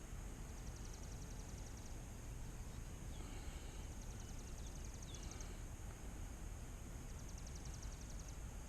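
Insects chirping faintly in short trains of rapid, high-pitched pulses, three times, each lasting about a second, over a low steady outdoor rumble.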